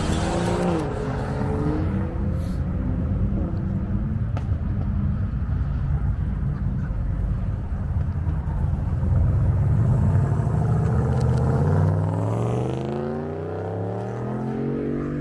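Car engine running with a deep rumble, its pitch climbing steadily over the last few seconds as it revs up.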